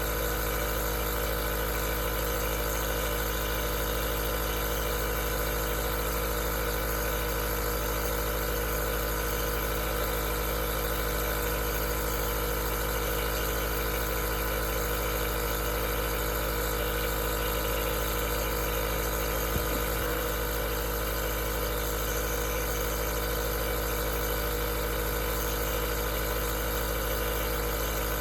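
Aerosol nebulizer running steadily: a constant machine hum with an even hiss of air, and one faint tick about twenty seconds in.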